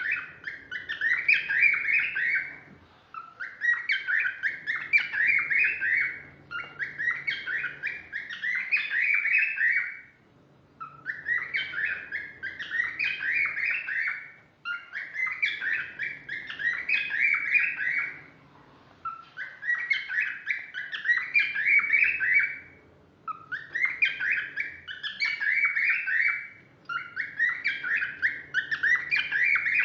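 Cockatiel singing, repeating the same whistled phrase again and again, each lasting a few seconds with short breaks between.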